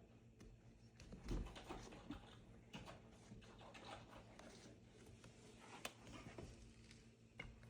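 Faint, irregular light taps and soft thumps, the loudest thump about a second in.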